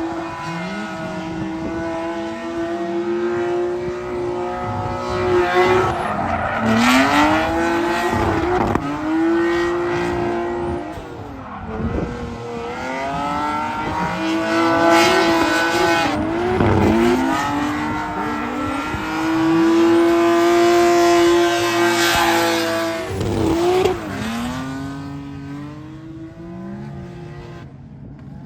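Drift car engine revving hard on track, its pitch repeatedly dropping and climbing again with throttle lifts and shifts, with bursts of tire squeal.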